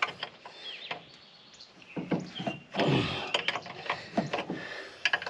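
Metal clinks and knocks of hand tools and fittings being handled during work on a truck air compressor: an irregular series of sharp knocks, busiest about two to three and a half seconds in.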